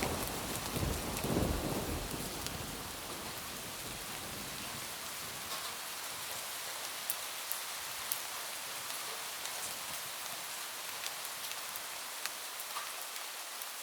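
A roll of thunder dies away over the first few seconds, leaving steady rain on a roof with individual drops ticking sharply now and then.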